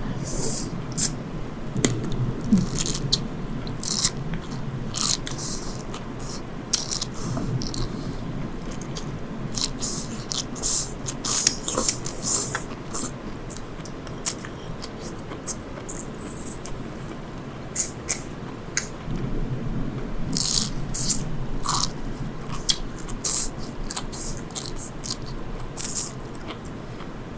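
Close-miked eating of sea grapes: wet chewing and biting with many short, crisp clicks as the beads are bitten through.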